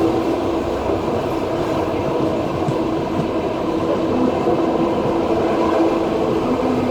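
Passenger train running at speed, heard from inside the carriage: a steady rumble of wheels on rail with a few steady humming tones held throughout.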